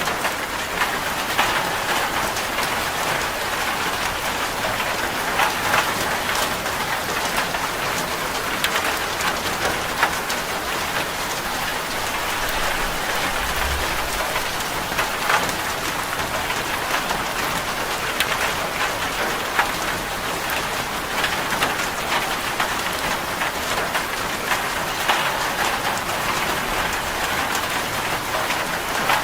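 Steady rain pattering on a zinc sheet roof: a dense, even hiss of countless drops ticking on the metal.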